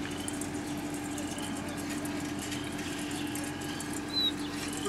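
Birds chirping now and then over a steady low mechanical hum, with one louder chirp about four seconds in.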